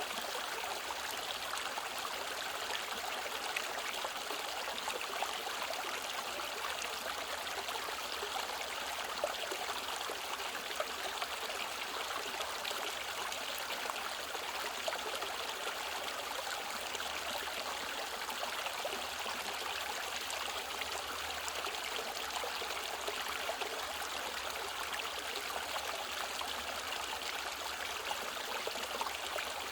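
Mountain stream flowing over rocks: a steady rushing and trickling of water with small splashes, even in level throughout.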